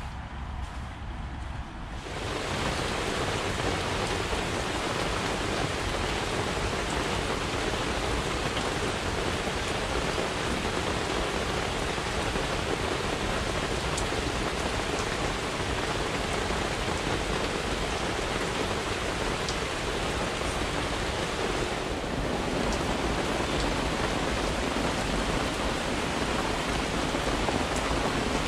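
Steady rain pattering on a tent, a dense even hiss that starts abruptly about two seconds in after a quieter low rumble.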